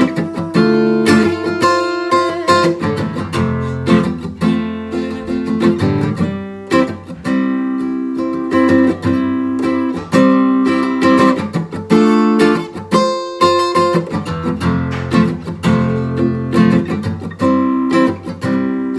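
Acoustic guitar playing an instrumental break between sung verses, plucked notes and strums in a steady rhythm.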